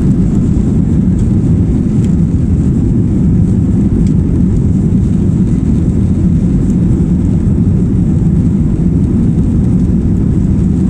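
Loud, steady airliner cabin noise: a constant low rumble of jet engines and airflow heard from inside the passenger cabin.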